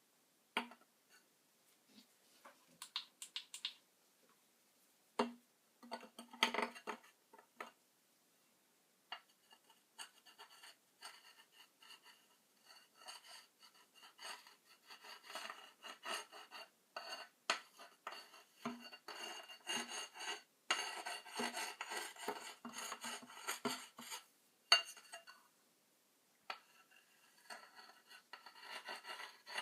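Hand repair work on metal and plastic parts: scattered clicks and taps, then a long stretch of scraping and rubbing, with one sharp click about 25 seconds in.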